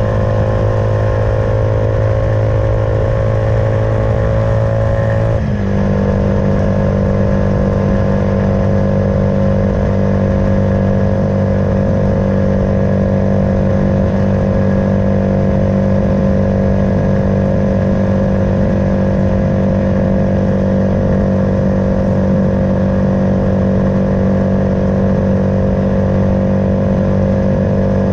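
Suzuki Van Van 125's single-cylinder four-stroke engine, fitted with an aftermarket full exhaust system, running under way. The engine note climbs slightly, then a gear change about five seconds in briefly drops the level and shifts the note. It then runs on steadily.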